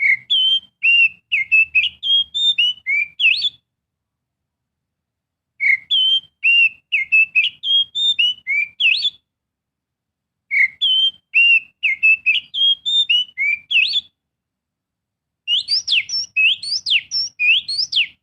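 Oriental magpie-robin song, a lure recording for captive birds: a phrase of quick varied whistled notes about three and a half seconds long, repeated identically three times with short silent gaps. Near the end it changes to a faster phrase of steep rising whistles.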